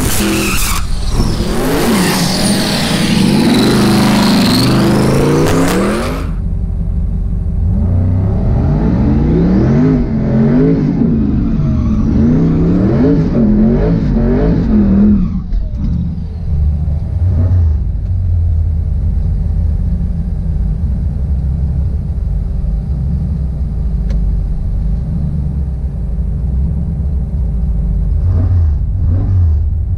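A high-horsepower drag car's engine at full throttle, its pitch climbing, cutting off abruptly about six seconds in. Then an engine revving up and down quickly for several seconds, followed by a steady low rumble of engines running.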